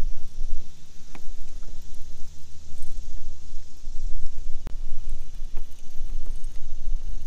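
Wind buffeting the microphone: a loud, gusting low rumble, with a few sharp clicks or taps.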